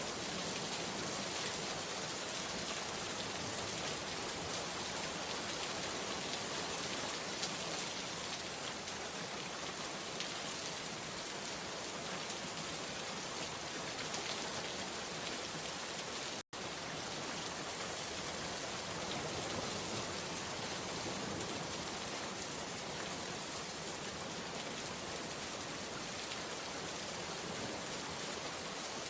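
Steady rain falling: an even hiss with fine, scattered drop ticks. It cuts out to silence for a split second about halfway through, then carries on unchanged.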